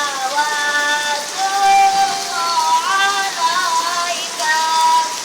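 Steady rain with a solo voice singing sholawat, a devotional Islamic chant, over it in long held notes that bend and slide in pitch.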